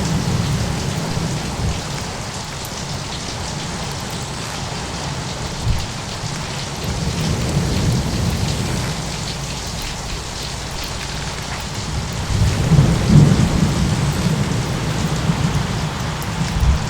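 Thunderstorm ambience: steady rain hiss under rolling low thunder that swells several times, loudest a little past the middle, with a few short deep thuds.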